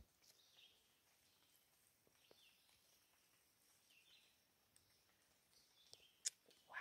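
Near silence in the woods with faint bird chirps, a few short falling calls spread a second or more apart. A sharp click about six seconds in, then a brief scuff at the very end.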